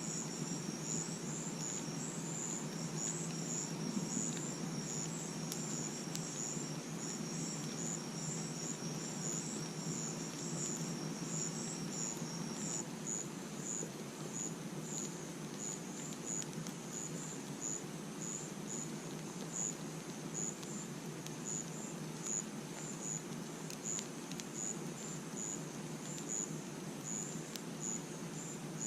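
Crickets chirping in short repeated pulses, with a second insect's continuous high trill that stops about halfway through. A low steady rush and a few faint clicks sit beneath.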